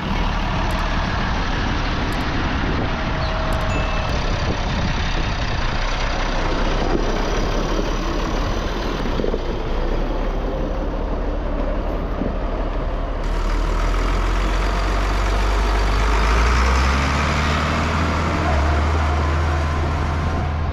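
International Farmall 1566 tractor's turbocharged six-cylinder diesel engine running steadily under way. The sound shifts about two-thirds of the way through, with a strong low engine hum toward the end.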